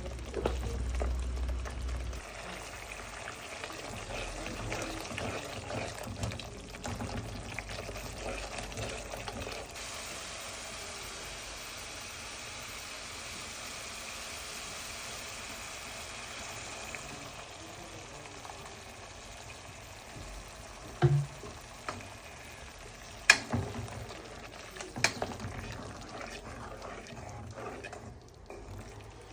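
Curry frying and sizzling in a pan with steady stirring, and a few sharp knocks, one louder, a little past the middle.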